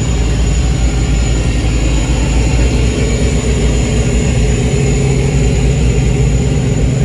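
A car engine running at low revs, a steady low rumble.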